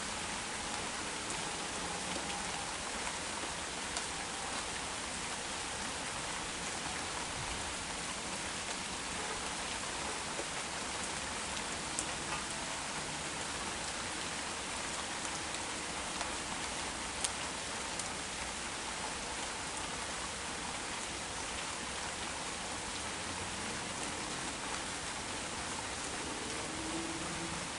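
Rain falling steadily, an even hiss with a few louder single drops ticking.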